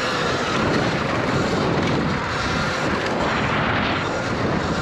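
Heavy wind buffeting on the rider's lav microphone while riding a Surron electric dirt bike at road speed, a steady rushing rumble with a faint whine from the bike.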